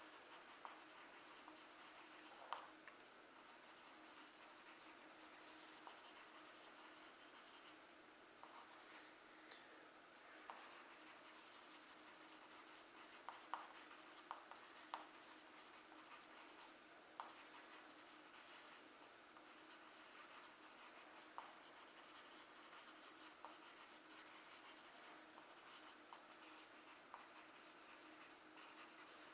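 Faint scratching of a charcoal pencil's side dabbed and stroked across textured drawing paper to lay in leaves, with scattered light ticks of the pencil striking the paper.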